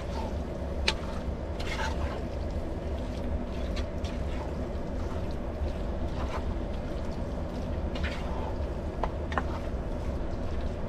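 Chicken biryani gravy simmering in a pot on a low flame, with irregular bubbling pops and clicks over a steady low hum.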